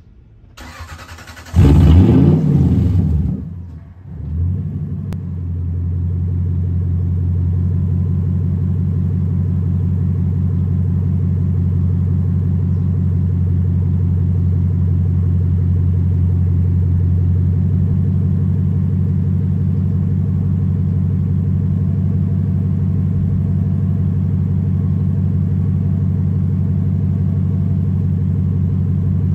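Cold start of a 1995 Lexus LS400's 4.0-litre V8 with all four rear mufflers cut off. It fires about a second and a half in with a loud flare of revs, dips about four seconds in, and then settles into a steady idle.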